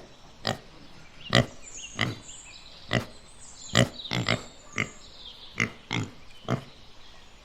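Pig grunting: a string of short grunts, about a dozen, coming roughly every half second to a second.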